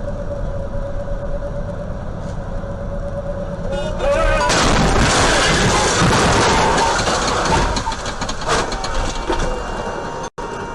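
Road vehicle running, with a steady tone over a low rumble; about four seconds in, a sudden loud rush of noise lasting about four seconds, then easing off.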